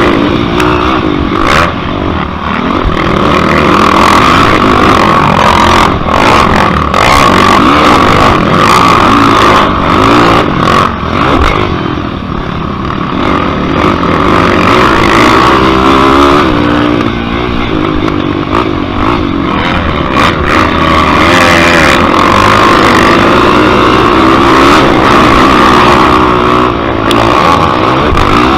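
Yamaha YFZ450 quad's single-cylinder four-stroke engine racing, revving up and easing off again and again, with sharp knocks and rattles from the rough track.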